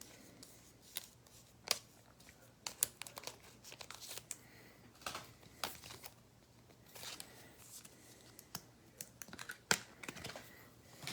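Faint, irregular crinkling and rustling of thin plastic card sleeves as trading cards are slid into them and handled.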